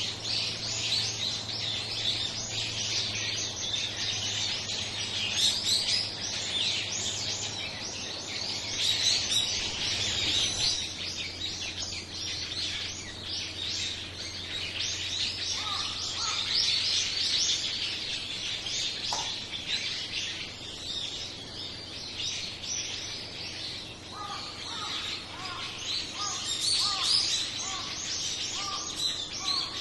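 A flock of small birds chirping and twittering densely, many short high calls overlapping without a break. From about halfway a lower call repeats in an even series beneath the twittering.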